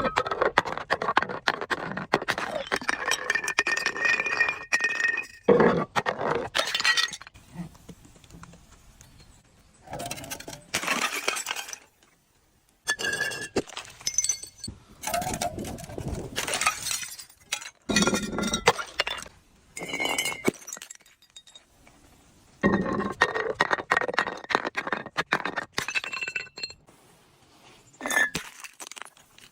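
Glass bottles being crushed and broken: repeated cracking and crunching of glass with clinking shards and brief ringing tones. It comes in bouts of a few seconds separated by short pauses.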